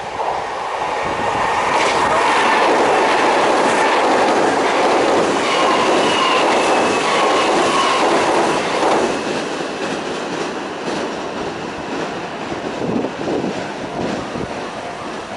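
A Kintetsu Minami-Osaka Line electric train passing close by at speed on the Yamato River bridge: its wheel-on-rail noise swells about a second in, stays loud for several seconds, then fades away. A thin wheel squeal sounds briefly midway through.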